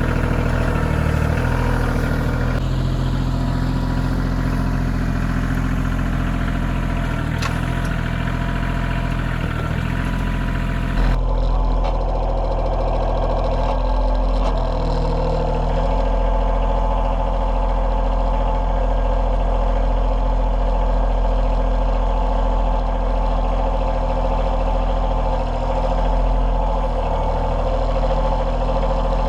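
Kioti CK2620 compact tractor's three-cylinder diesel engine running steadily, with an abrupt change in its sound about eleven seconds in.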